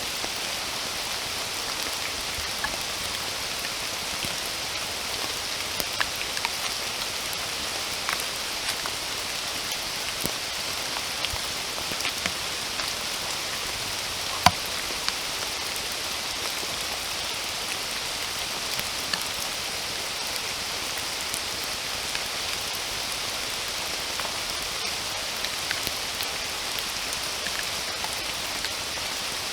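Steady rain falling: an even hiss with scattered individual drops ticking sharply, one louder drop about halfway through.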